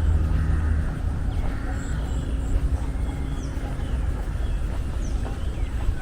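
Outdoor city-park ambience: a steady low rumble of vehicle traffic, heaviest in the first second, with birds chirping and calling in short, sliding notes above it.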